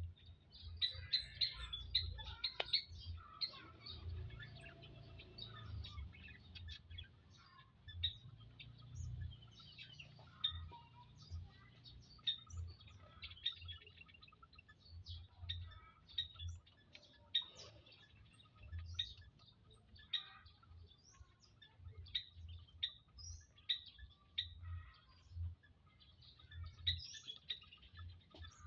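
Quail chirping: many short, high chirps overlapping one another throughout, with frequent low bumps underneath.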